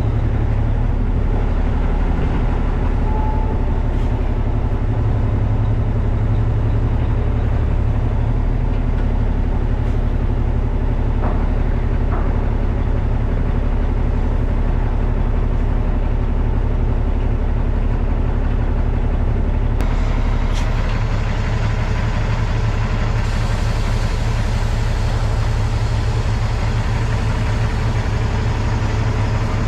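Tractor-trailer's diesel engine running steadily at low revs during slow, tight maneuvering. About two-thirds of the way through, a steady hiss joins it.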